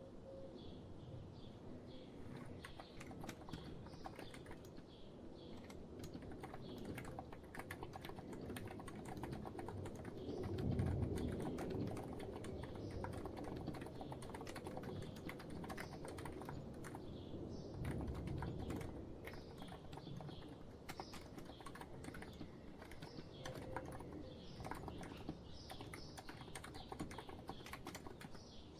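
Continuous typing on a COX Empress electrocapacitive keyboard: a steady stream of soft, muted keystrokes, with a couple of louder low thuds about eleven and eighteen seconds in. Birds chirp faintly behind the typing.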